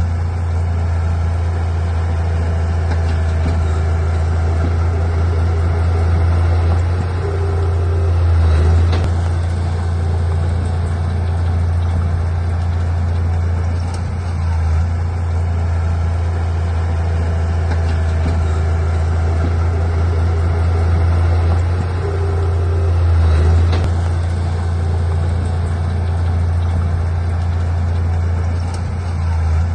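Heavy diesel engine of an earthmoving machine running steadily, swelling briefly twice, about eight seconds in and again past twenty seconds, as it takes load.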